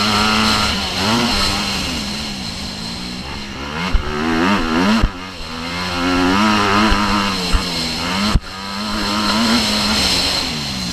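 Motocross bike engine revving hard, its pitch climbing and dropping again and again as it runs up through the gears and backs off. A few sharp knocks cut in partway through.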